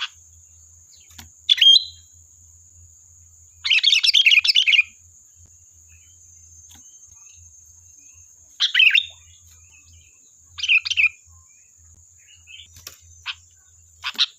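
Sooty-headed bulbul (kutilang) singing in short separate bursts of chirpy notes every couple of seconds, the longest a busy phrase of about a second. A faint steady high whine runs underneath.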